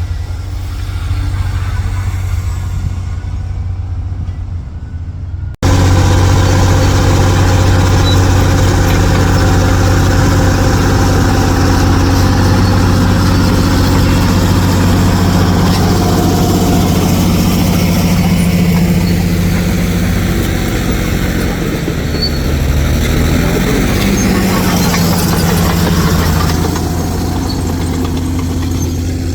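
Heavy diesel truck engine running steadily. It cuts suddenly about five and a half seconds in and comes back louder and harsher. Near the end the engine pitch briefly rises and falls.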